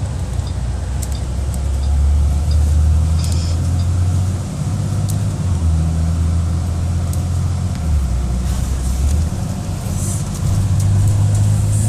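Low vehicle engine drone with road rumble, heard from inside a moving car on a bumpy road. The drone's pitch shifts in steps several times, with light clicks and rattles over it.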